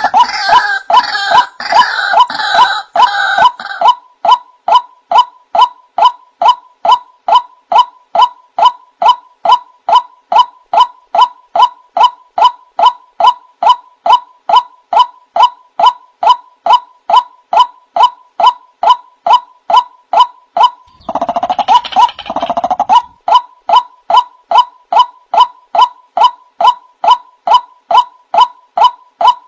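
Male white-breasted waterhen (the 'wak-wak' bird) calling: a steady run of short repeated notes, about two a second, with a denser, rougher stretch of overlapping calls at the start and again about three quarters of the way through.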